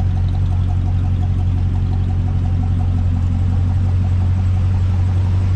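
1950 Chevrolet 3100 pickup's swapped-in LT1 V8 idling steadily.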